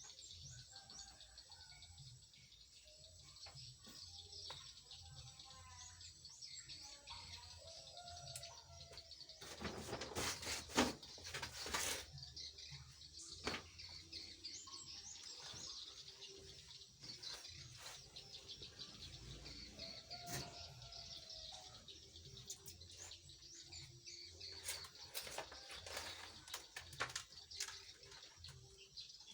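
Small birds chirping and twittering. About ten seconds in comes a brief burst of clattering knocks.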